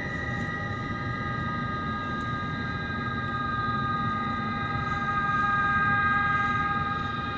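Wind whistling through the gaps around a garage door: several steady, creepy whistling tones held together over a rushing hiss, swelling louder about five seconds in.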